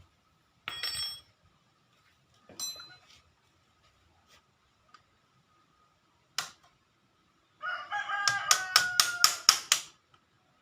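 A rooster crowing once, loudly, for about two seconds near the end, after a few short sharp sounds earlier on.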